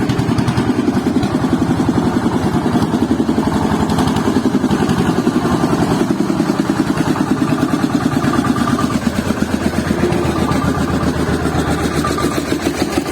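Motor running steadily with a fast, even pulsing, like an idling engine; a faint high tone comes and goes in the second half.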